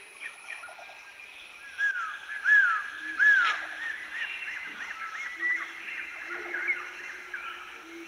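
Several birds calling together: a chorus of short, arching whistled notes, three loud ones about two, two and a half and three and a half seconds in, with quieter calls throughout.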